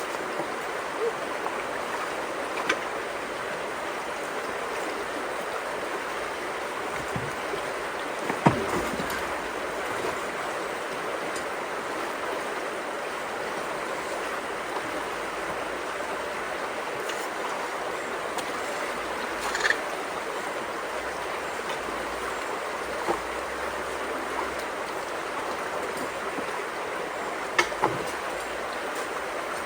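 Steady rush of flowing creek water, with a few short knocks or splashes over it, the loudest about a third of the way through.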